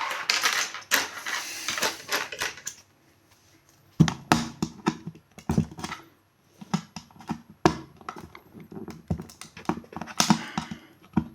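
Plastic enclosure of an external hard drive being handled and pried open by hand: a run of irregular clicks and knocks with scraping, a longer scrape at the start and another shortly before the end, and the plastic cracking.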